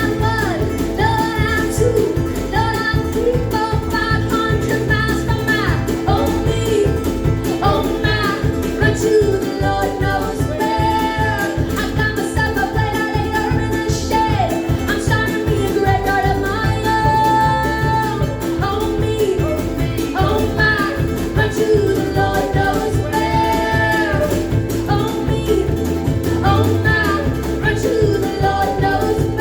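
Live acoustic band playing a fast country or bluegrass song with singing, ukulele and a quick, steady percussion beat with cymbal.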